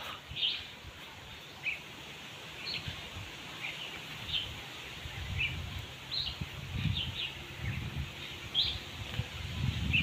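Small birds chirping, short high chirps about once a second, over a low rumble that grows in the second half.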